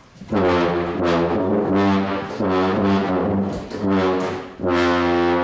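Brass instruments playing a slow phrase of long held notes, each about a second, with short breaks between them.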